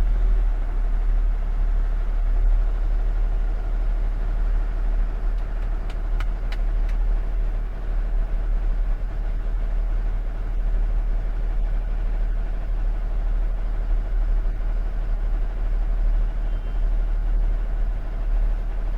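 Steady engine and road drone of a 20 ft box truck heard from inside the cab while driving, with faint clicks about six seconds in.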